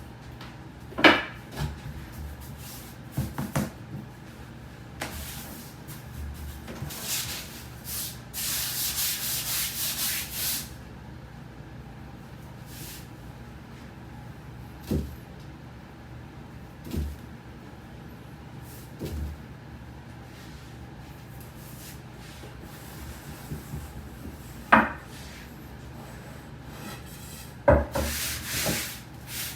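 Soba dough being hand-rolled on a wooden board: wooden rolling pins rubbing over the floured sheet, with a sharp wooden knock now and then. About seven seconds in, a louder hissing rub lasts some three seconds.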